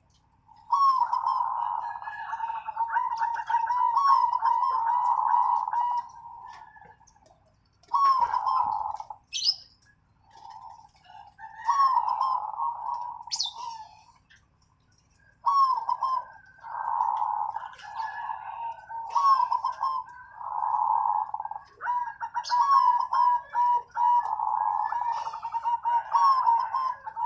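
Zebra dove (perkutut) song: repeated phrases of quick, wavering coos, each lasting a few seconds with short pauses between, and faint high chirps above them.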